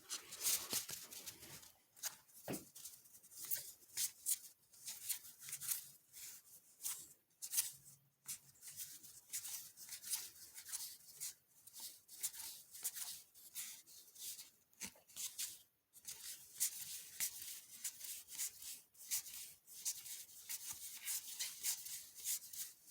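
Trading cards being flipped through by hand, the cards sliding and rubbing against one another in many short, irregular swishes, with a brief pause about two-thirds of the way through.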